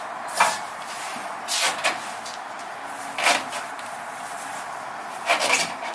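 Several short metal clunks, about five spread over a few seconds, as a Jeep Wrangler JK's rear coil spring is turned and worked into its seat.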